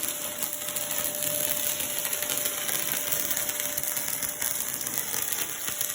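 Electric arc welder crackling and hissing steadily as a weld is laid.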